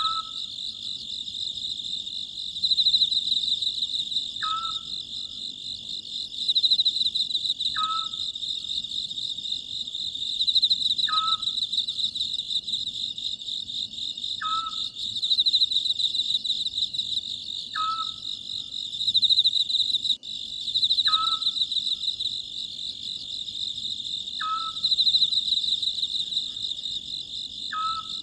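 Oriental scops owl giving its short call over and over, about once every three seconds, over a steady, pulsing trill of crickets.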